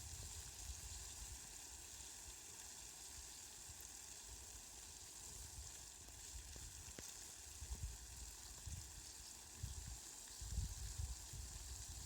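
Steady rain falling, a soft even hiss, with a few low rumbles in the last few seconds.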